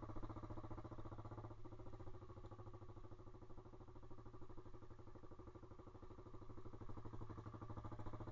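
Pit bike's single-cylinder engine running steadily at low speed while riding, easing off a little in the middle and picking up again near the end.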